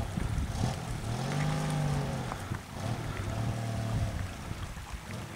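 Maruti Gypsy 4x4 engine revving in two swells, each rising and falling in pitch, as the jeep crawls up bare rock. Under it is a steady low rumble with scattered knocks from the tyres on rock.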